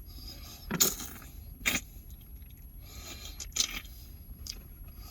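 Utensil scraping and clinking against a takeout food container in a few short strokes, scooping up the last of the food.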